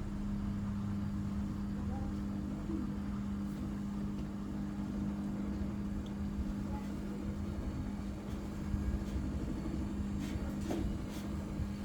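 Samsung EcoBubble washing machine running, a steady motor hum over a low rumble from the drum, with a few faint clicks near the end.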